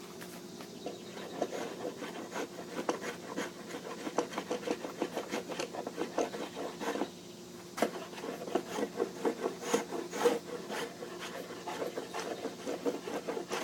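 Small hand tool scraping and shaving wood off a canoe's stem to form its bevel, in quick short strokes with a brief pause about seven seconds in.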